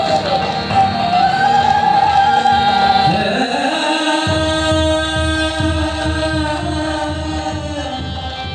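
Hindu devotional funeral chant: voices singing long, held notes over a low accompaniment, with a lower held note coming in about three seconds in.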